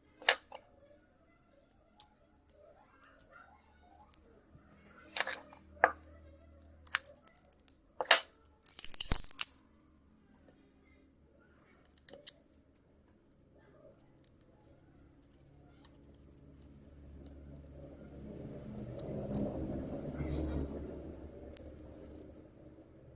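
Small tools clicking and tapping against a phone's parts during a screen repair, with a short scraping burst about nine seconds in and a longer low swelling sound near the end.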